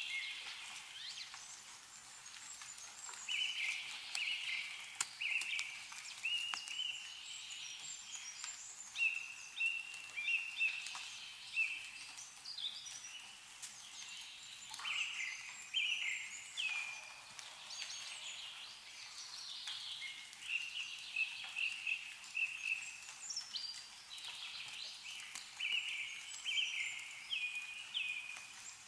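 Songbirds chirping over and over in short repeated calls, with scattered sharp ticks of meltwater dripping from snowy trees.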